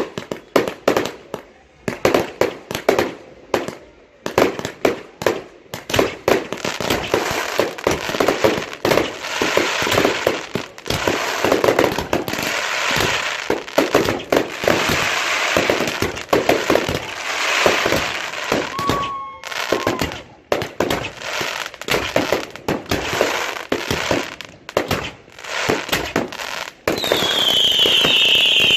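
Fireworks display going off: a rapid, dense run of bangs and crackling. Near the end a loud high whistle begins, falling slowly in pitch.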